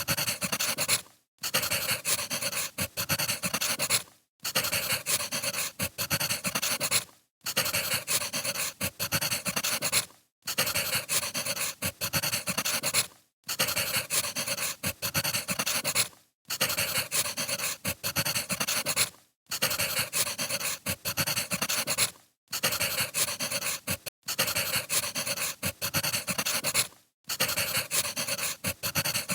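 Crackling wood-fire ambience, a steady hiss dotted with sharp pops, played as a short loop that cuts out briefly about every three seconds.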